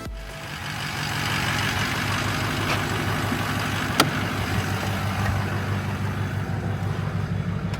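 Old pickup truck's engine running steadily at idle, with a single sharp click about halfway through.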